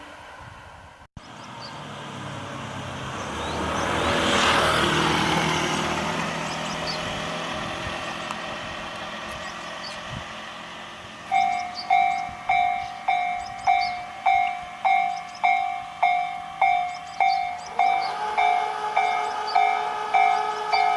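A Tobu Noda Line electric train passing over the level crossing, its rumble swelling to a peak about four seconds in and then fading. About eleven seconds in, the level-crossing warning bell starts ringing, an even clang just under twice a second.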